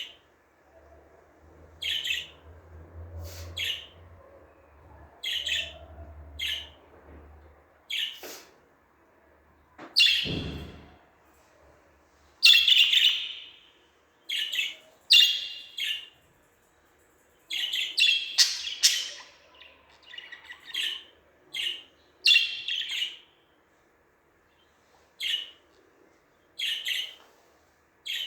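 Budgerigar (parakeet) chirping: a string of short, high, separate chirps, roughly one every second, with a few busier warbling runs in the middle.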